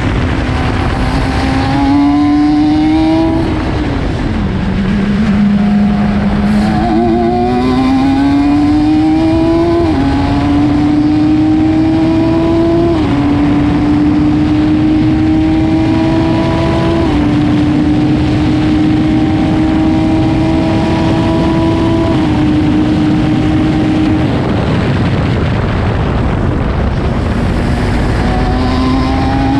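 Car engine lapping a race circuit, heard from the driver's helmet camera: its pitch climbs, dips once, then holds with a few small downward steps at the gear changes, under heavy wind and road noise. The engine note fades for a few seconds near the end, then comes back rising.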